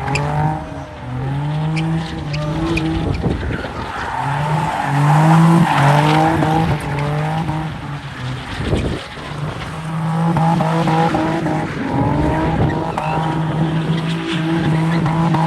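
Chevrolet Camaro doing a burnout: the engine is held at high revs that rise and dip again and again, and the tires squeal as they spin on the pavement, wearing through a tire.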